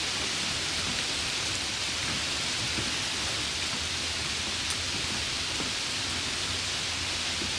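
Steady rain falling, an even hiss with a few faint, sharper ticks of single drops.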